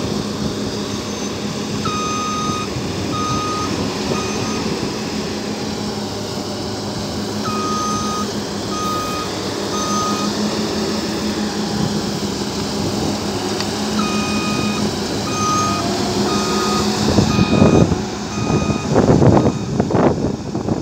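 New Holland CS6050 combine harvester's engine running steadily while a reversing alarm beeps in several short runs of evenly spaced high beeps. Near the end, loud rough surges of noise rise over the engine.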